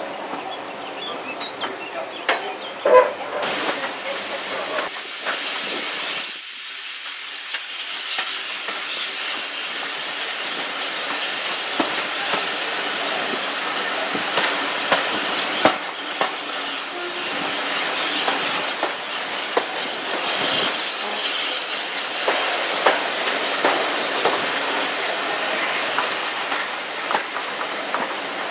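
Heritage railway train running on the track: a steady rumble with the clicks of wheels over rail joints, and brief high-pitched wheel squeal a couple of times.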